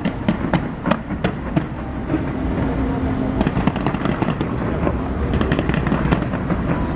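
Fireworks bursting: a string of sharp bangs at first, thickening from about three seconds in into a dense crackle of many quick cracks, over a steady low rumble.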